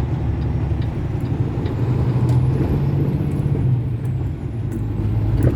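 Diesel engine of a vacuum tanker truck running steadily under way, a low drone.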